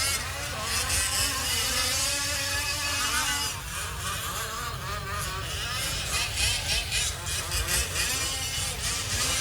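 Several 1/5-scale gas-powered RC off-road trucks' small two-stroke engines buzzing together, their pitch repeatedly rising and falling as they rev up and back off around the track.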